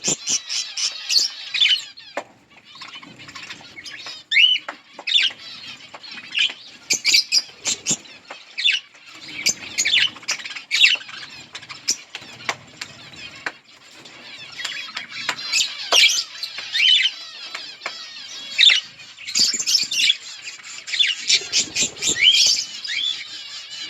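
A flock of budgerigars chirping and chattering continuously in many short, high warbling calls, with brief flutters of wings among them.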